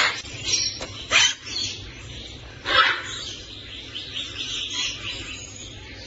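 Caged birds calling: a few short, loud squawks in the first three seconds, then softer chirping.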